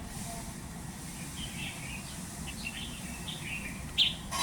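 Birds chirping: a run of short, scattered chirps, with one louder, sharper call about four seconds in, over a steady low background rumble.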